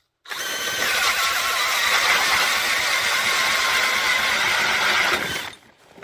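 DeWalt DC997 brushless cordless drill spinning a 6-inch K-Drill ice auger, boring through ice: a steady motor whine with a wavering pitch over grinding, starting suddenly and stopping about five and a half seconds in.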